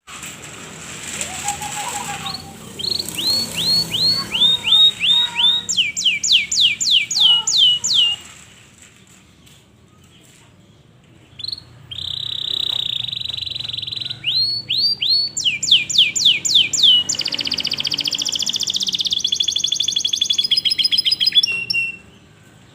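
Local domestic canary singing its loud, shrill song: phrases of quickly repeated down-sweeping notes, several a second, a pause of a few seconds, then a held whistle, more sweeps and a fast rattling trill.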